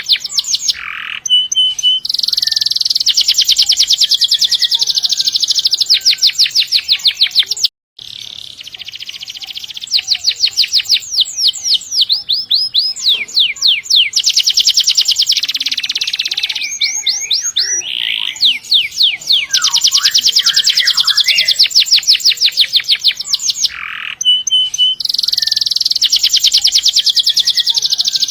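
Domestic canary singing loudly in long rolling trills, fast runs of repeated notes strung into extended phrases. The song cuts out for a moment about eight seconds in.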